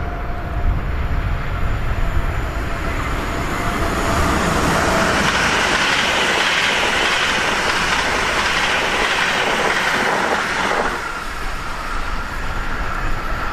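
Rhein-Ruhr-Express electric multiple unit (Siemens Desiro HC, class 462) running past on the line with wheel-on-rail rumble and clatter. The sound swells about four seconds in and falls away again around eleven seconds.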